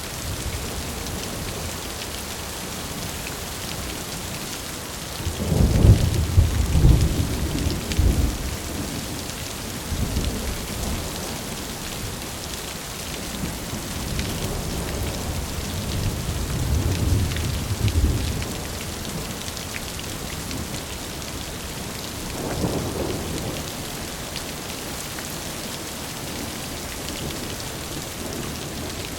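Steady rain falling, with rolls of thunder rumbling about a quarter of the way in, again near the middle, and a fainter one about three quarters in.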